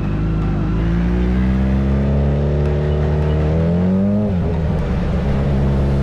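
Motorcycle engine accelerating, its pitch rising steadily for about four seconds, then dropping sharply as the throttle comes off or it shifts gear, and running on steadily.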